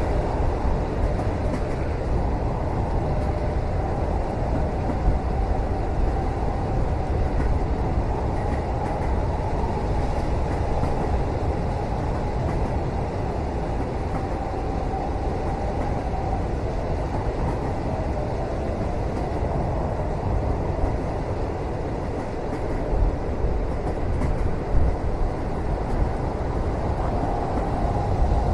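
Moving train heard from inside a passenger cabin: a steady low rumble of the carriage running on the rails, with a few brief knocks, mostly near the end.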